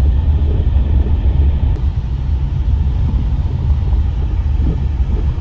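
A car driving: steady low road and engine rumble.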